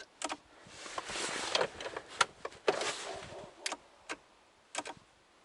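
VAZ 2107 windscreen wipers running, with two hissing sweeps of the blades across the glass. Sharp clicks of the steering-column switches come in between.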